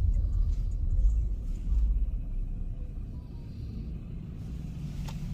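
Low, steady rumble of a car driving, heard from inside the cabin, easing off a little after about two seconds.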